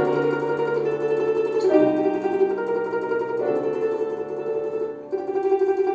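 Solo instrumental music on a plucked string instrument in the Russian folk style, playing a folk-song arrangement. The notes are drawn out with a rapid quivering texture, likely tremolo, and change pitch every second or two.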